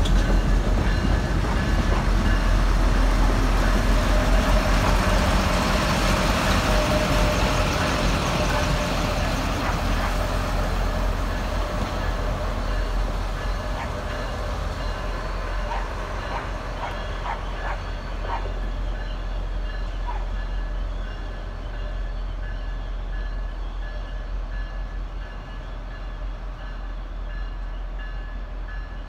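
Train of tank cars rolling past on the rails and pulling away, the rumble of the wheels fading steadily. A few clicks from the wheels on the rails come about halfway through.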